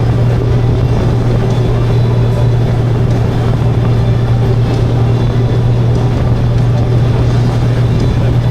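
Motorcycle riding at a steady cruising speed: a constant engine drone with wind and road noise, unchanging throughout.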